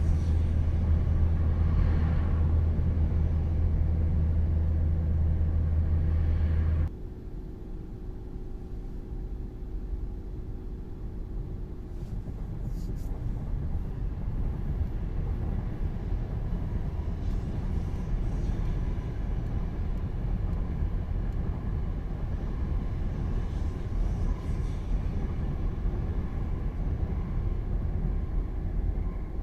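Low rumble of a Tokaido Shinkansen train, cutting off abruptly about seven seconds in, then a quieter steady rush that slowly grows louder.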